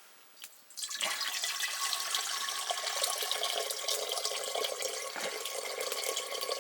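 Water running or pouring steadily into a vessel, starting suddenly about a second in and cutting off sharply near the end.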